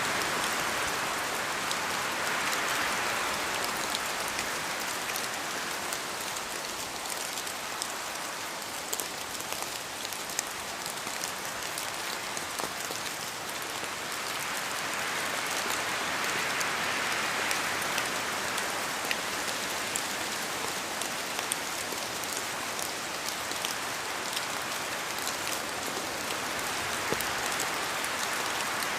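Steady rain and wind in forest trees: an even hiss of rain on leaves that swells and eases twice, about two seconds in and again past the middle. Scattered individual drops falling from the trees tick sharply throughout.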